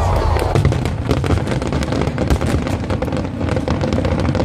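Aerial fireworks crackling and popping in rapid, irregular succession over a low rumble.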